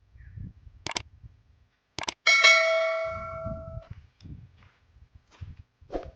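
A single metallic ring like a struck bell, about two seconds in, dying away over about a second and a half. A few sharp clicks come before it, with faint low rumbling noise around it.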